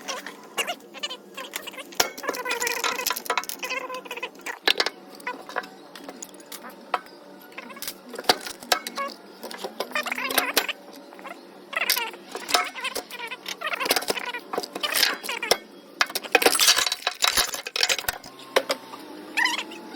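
Metal hand tools (wrenches and sockets) clinking and clattering as they are picked up and set down, a rapid, irregular series of sharp metallic clinks.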